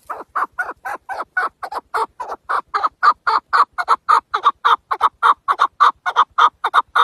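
Chukar partridge calling: a fast, even run of short clucking notes, about five or six a second, growing louder toward the middle.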